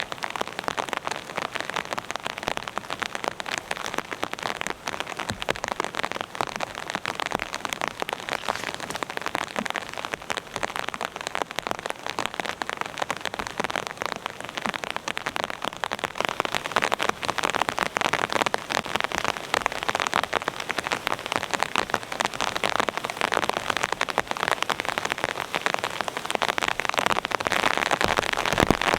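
Rain falling in a dense, steady patter of drops, growing somewhat louder about halfway through.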